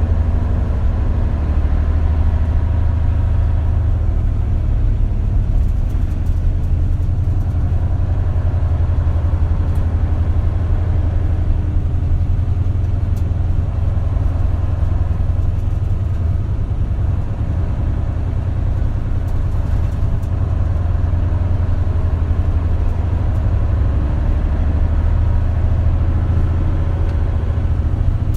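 Isuzu KL-LV280L1 city bus heard from inside the cabin: a steady low engine drone while the bus is under way. It eases off somewhat in the middle and builds again in the last third.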